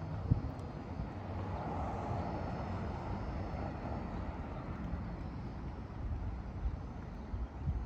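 Distant engine noise: a steady rumble that swells briefly about two seconds in, with a single small knock near the start.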